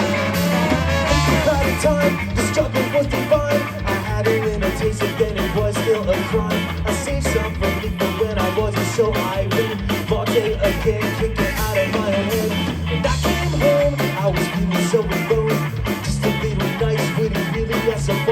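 Live rock band playing an instrumental passage: drums keep a steady beat under bass and electric guitar lines.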